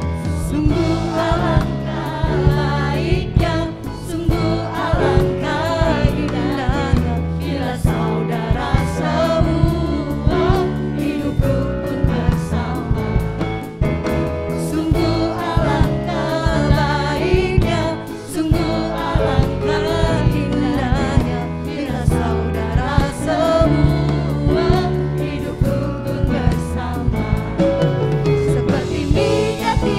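Contemporary worship music: a group of singers with a band, drums and keyboard.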